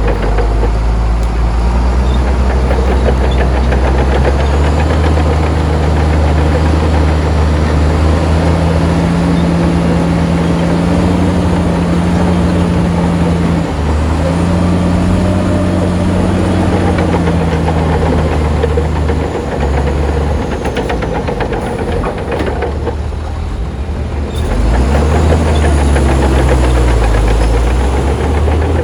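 Heavy diesel engine of earthmoving machinery running under varying load, its engine speed rising and falling several times.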